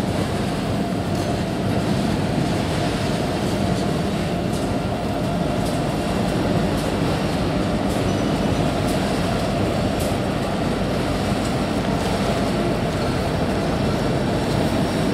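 Freight cars rolling past on the rails, with a second train crossing the overpass at the same time: a steady, loud rumble of wheels on track, with a few faint clicks from about four seconds in.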